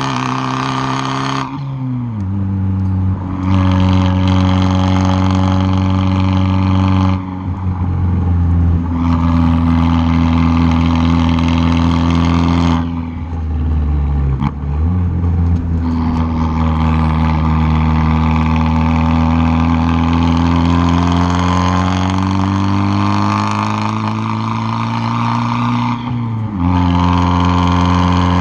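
Turbocharged four-cylinder exhaust of a tuned Fiat 500 Abarth, heard close at the tailpipe, accelerating hard: the pitch climbs through each gear and falls sharply at the shifts, with short quieter lift-offs, and a long rising pull through the second half.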